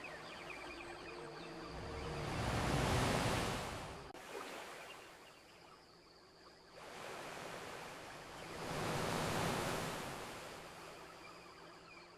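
Gentle ocean waves washing onto a beach: two swells, the first about three seconds in and the second near nine seconds, each rising and falling away.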